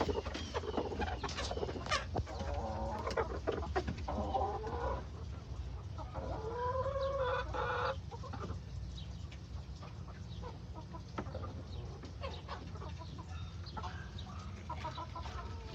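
Broody hens clucking in a crowded nesting box, with two longer drawn-out calls, one about three to five seconds in and one about six to eight seconds in.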